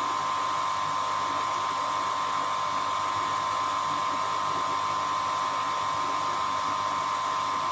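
A steady mechanical whine with a constant high tone and hiss, like a small electric motor or fan running.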